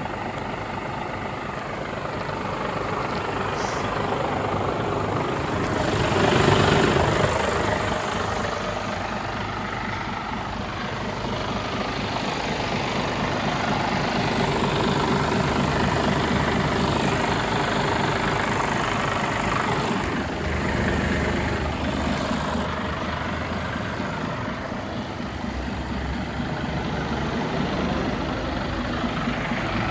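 Diesel engine of a Mercedes-Benz Actros 1845 tractor unit running steadily, swelling louder for a moment about six seconds in.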